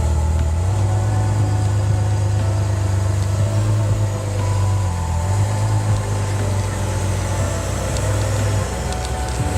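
A steady low engine hum, as of a motor vehicle running, shifting pitch a few times.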